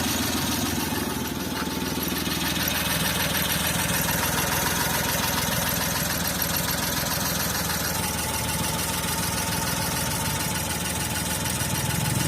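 Suzuki F6A 12-valve three-cylinder engine idling steadily, running again after a cylinder head rebuild with new valves and valve guides.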